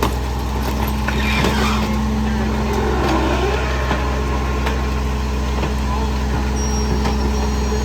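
Garbage truck's diesel engine running steadily at idle, with a few knocks and clanks.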